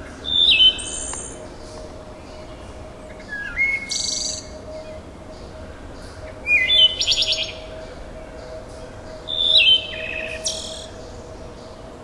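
A songbird singing four loud, intricate phrases about three seconds apart, each about a second long, mixing whistled notes, rapid trills and buzzy notes. A faint steady hum runs underneath.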